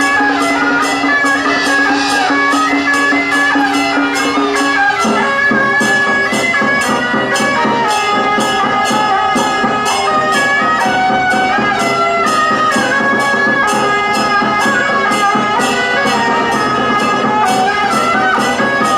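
Traditional temple-procession music: reedy wind instruments play a wavering melody over a steady beat of cymbal crashes about twice a second. A held low drone tone stops about five seconds in.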